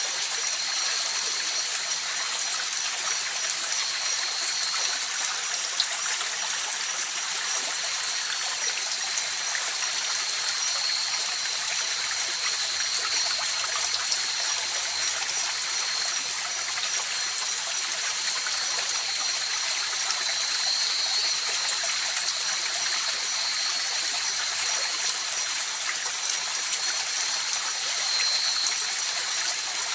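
A river or stream running steadily over rocks, a constant rushing with no breaks. A thin, high-pitched trill holds steady above the water.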